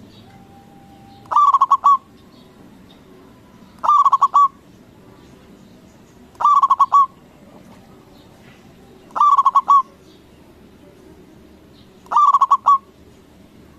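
Zebra dove (perkutut) singing its cooing song: five short phrases, each a quick run of several stuttering coos, repeated about every two and a half to three seconds.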